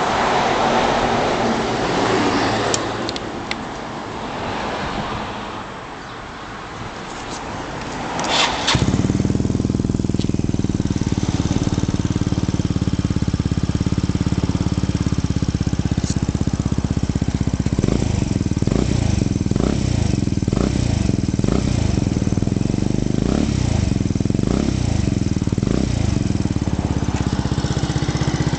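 Wind-like noise on the microphone, then about eight seconds in a Yamaha BW'S 125 scooter's single-cylinder four-stroke engine starts and settles into a steady idle. In the second half there are several short blips of the throttle.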